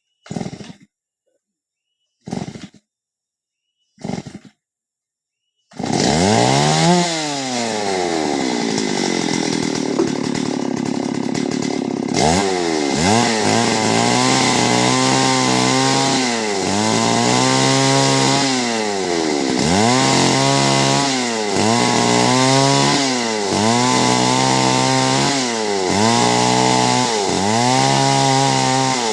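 Two-stroke chainsaw: after three short sounds, the engine catches about six seconds in and runs loud, its pitch rising and falling in repeated swells about every one and a half to two seconds as the throttle is worked.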